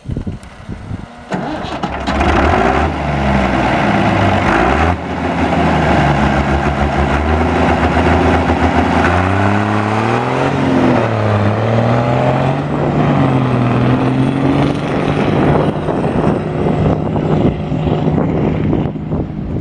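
Ford pulling tractor's engine running loud, coming up in level about two seconds in. Its pitch rises and falls several times as it is revved around the middle, then settles to a steady pitch near the end.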